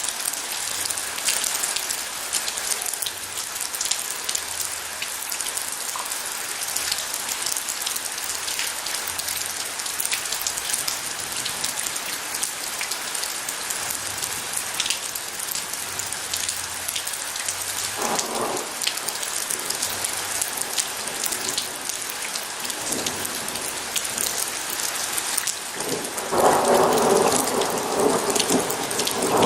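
Steady heavy rain with many individual drops striking, and thunder: a short rumble about two-thirds of the way in, then a louder, longer roll near the end.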